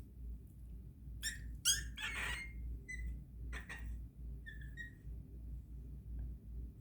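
Young puppy giving short, high-pitched whimpering squeals, about six of them in the first five seconds, as the vaccine needle goes in.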